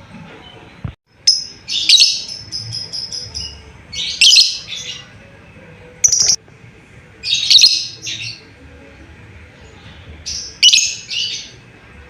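Lovebird making contact calls: loud, shrill chirps in short bursts every second or two, one burst trailing off into a quick run of short repeated notes.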